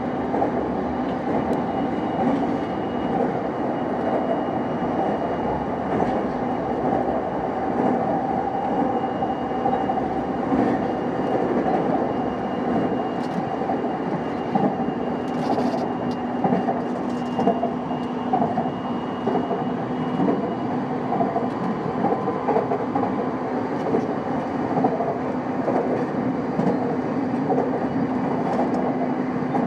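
JR East E233 series 5000 electric train running, heard from inside the car: steady wheel-on-rail rumble with a constant motor hum and scattered faint rail-joint clicks.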